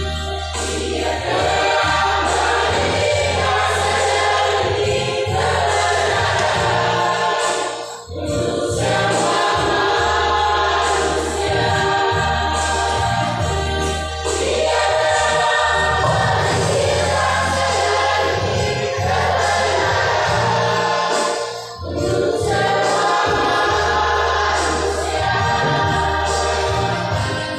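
Choir singing with a steady low accompaniment, in long phrases broken by short pauses about every six to eight seconds.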